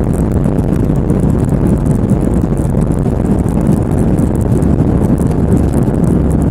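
Cabin noise inside an Airbus A320: a loud, steady rumble of engines and airflow, with faint quick ticking above it.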